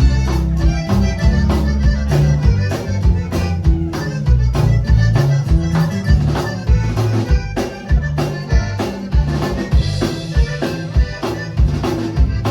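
Accordion playing a tune with a band, over a bass line and a steady percussion beat.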